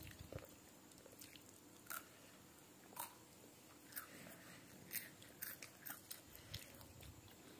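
Faint, irregular crisp crunches of a child chewing crunchy cheese-flavoured snack sticks.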